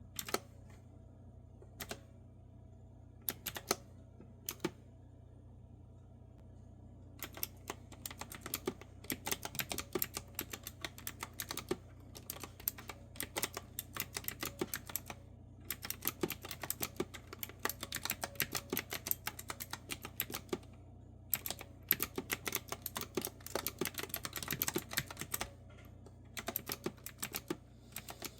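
Clicky retro-style keyboard with round keys being typed on: a few scattered keystrokes at first, then steady, fast typing from about seven seconds in, broken by a few short pauses.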